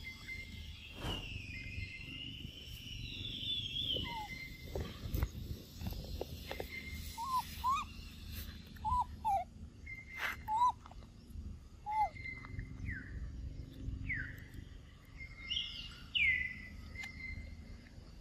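Birds calling: short whistled notes that curl up or down, repeated every second or so, with a few higher chirps. Under them is a steady low outdoor rumble and a few sharp clicks.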